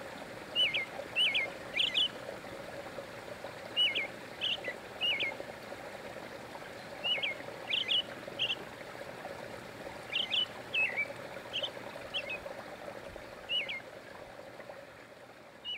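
Small songbird chirping: short, high, hooked chirps every half second to a second, in loose groups, over the steady rush of a small waterfall. The sound fades out near the end.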